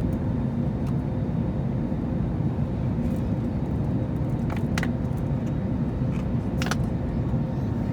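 Steady low rumble inside an Airbus A321neo's cabin in flight, engine and airflow noise with a faint steady hum. A few faint clicks come in the second half.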